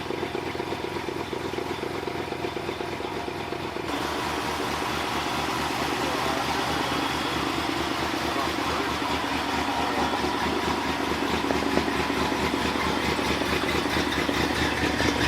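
1960 Ford Thunderbird's V8 engine running at a steady idle with an even low pulse. It gets louder and fuller about four seconds in and keeps rising slightly after that.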